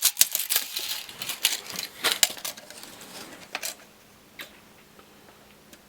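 Handling noises while measuring a plastic pool waterfall unit: a quick run of light clicks and taps for about two and a half seconds, then a few single ticks.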